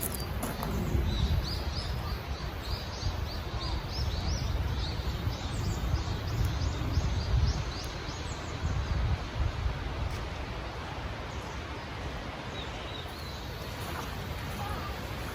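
A mountain stream flowing steadily, with a bird giving a quick run of short, high chirps over the first half.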